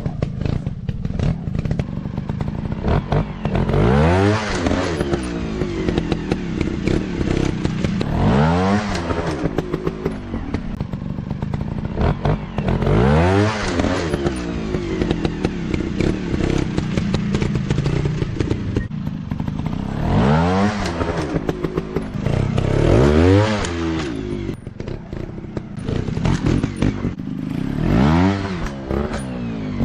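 Dirt bike engine revving up and dropping back about six times, every four or five seconds, running at low revs between the revs.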